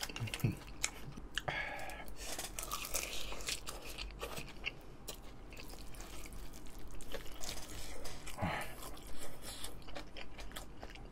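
Close-miked chewing of a mouthful of kimchi fried rice: many short, irregular wet mouth clicks and smacks.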